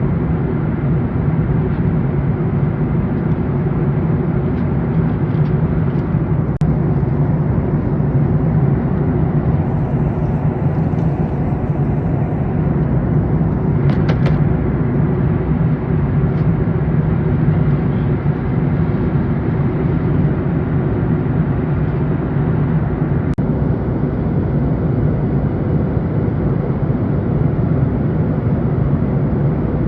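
Steady cabin drone of a Boeing 737 MAX 8 in flight, the CFM LEAP-1B engines and rushing airflow heard from inside the cabin, with a few brief faint clicks.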